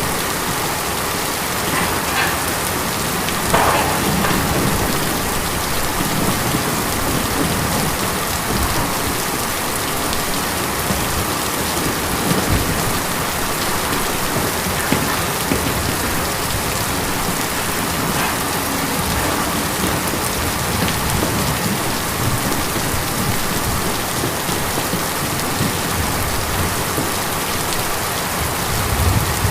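Steady rain on a tin roof: a dense, even patter of drops drumming on sheet metal, with a slightly louder cluster of hits about three and a half seconds in.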